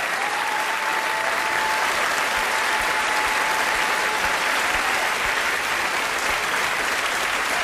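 Live audience applauding steadily after a song, with a faint held tone under the clapping for the first few seconds.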